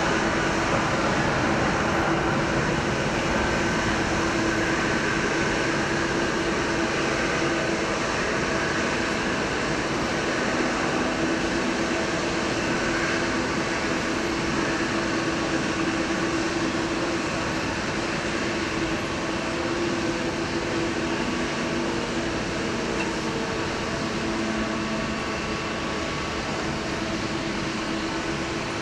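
Jet airliner engines running at low power on the ground, a steady hum with a held whine, slowly easing off near the end.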